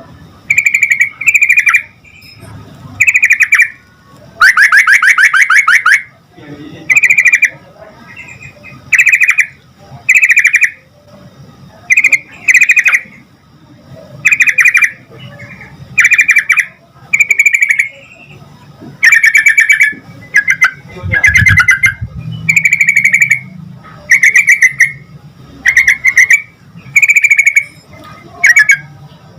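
Yellow-vented bulbul (trucukan) calling loudly in short, rapid, bubbly phrases, one roughly every second or so, with one longer phrase near the start.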